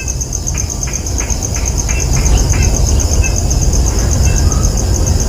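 Steady high-pitched, rapidly pulsing insect chirring, like crickets, over a low rumble. A run of about seven short, evenly spaced chirps sounds in the first half.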